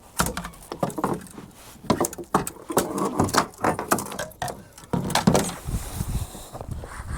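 Fishing gear being handled on a boat deck: a jigging rod being moved aside, with irregular clattering knocks and rattles.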